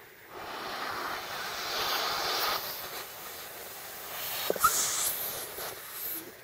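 A person blowing air into a rubber whoopee cushion to reinflate it: a long breathy blow, then a second blow about four seconds in.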